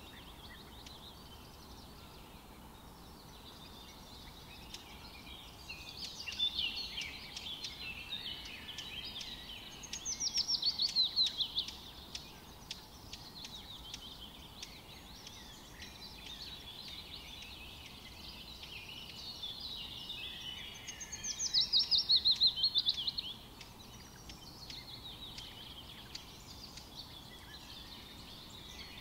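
Several songbirds singing and chirping over a faint steady hiss, with two louder rapid trills of quickly repeated falling notes, one about a third of the way in and one about three quarters in.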